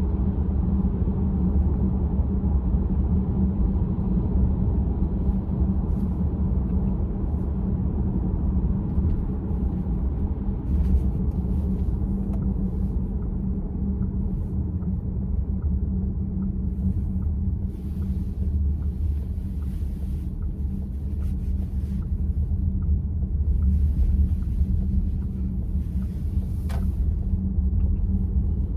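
Steady low road and tyre rumble heard inside the cabin of a VW ID.4 electric car while driving. Through the middle comes a faint ticking, a little more than once a second, and there is a single sharper click near the end.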